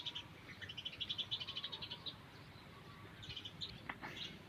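Birds chirping in quick high-pitched runs of rapid notes, repeated several times, with a short click near the end.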